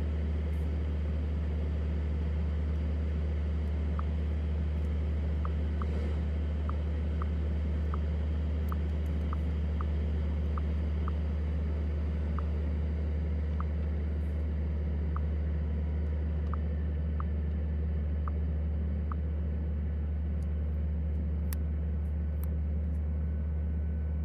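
Steady low rumble of a car being driven at an even speed, with faint, irregular light ticks over it.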